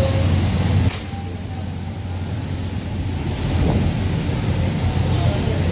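Industrial machinery running: a steady low hum with broad noise. It drops off abruptly about a second in, then builds back up gradually.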